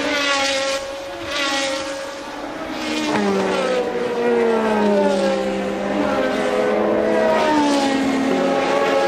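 Several 1982 Formula One racing cars running at speed together, their engine notes overlapping and each rising and falling in pitch.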